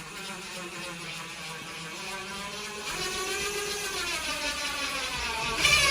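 Electric power drill running for about six seconds with a whining motor whose pitch wavers and rises in the second half. It gets loudest near the end and then cuts off.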